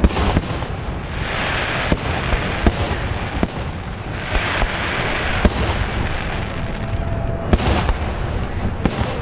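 Fireworks display with aerial shells going off in quick succession: sharp bangs throughout, the loudest right at the start and about five and a half and seven and a half seconds in. Two longer stretches of hissing crackle come about a second in and about four seconds in.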